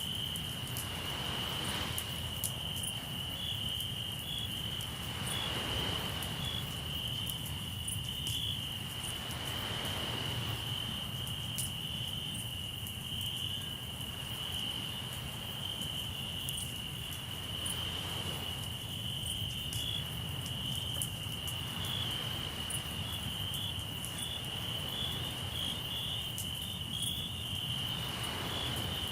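Crickets trilling steadily at a single high pitch, over small crackles from a campfire and the wash of sea waves rising and falling every few seconds.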